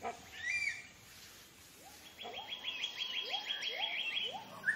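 Forest birds calling: a short chirp about half a second in, then from about two seconds a fast run of about a dozen high notes, with a few short rising lower calls beneath it.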